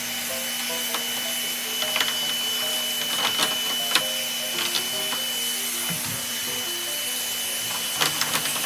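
Vacuum cleaner running steadily with a constant high whine, its nozzle clicking and knocking against the air conditioner's dirty parts now and then. Soft background music plays underneath.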